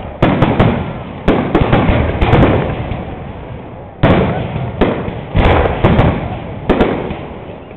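Fireworks display: aerial shells bursting in a quick series of loud bangs, each fading away with crackle, with a short lull about three seconds in before another volley.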